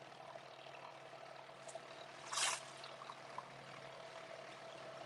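Water splashing and trickling along the hull of a moving abra, with one louder splash about halfway through, over the faint steady hum of its petrol engine.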